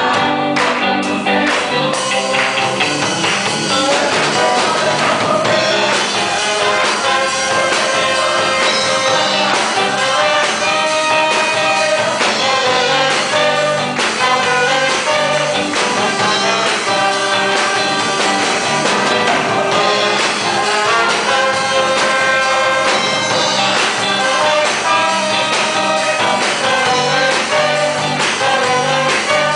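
Evangelical gospel hymn: a group of voices singing over instrumental accompaniment.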